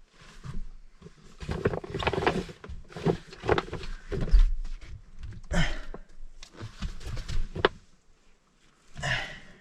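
Rummaging through gear: fabric and bags rustling in irregular bursts, with a few light knocks.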